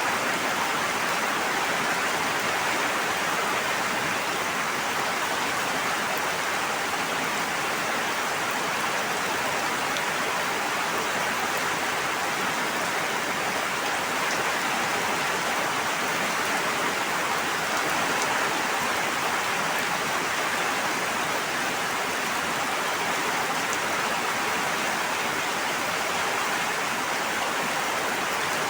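Steady, even hiss of water with no breaks or changes in level.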